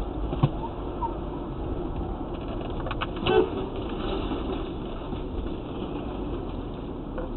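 Steady vehicle rumble and road noise as picked up by a dash cam, with a sharp click about half a second in and a short, louder knock a little after three seconds.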